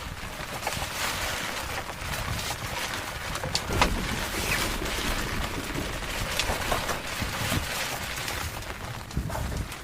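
Steady rain with some wind, and scattered sharp taps of drops, the loudest a little under four seconds in.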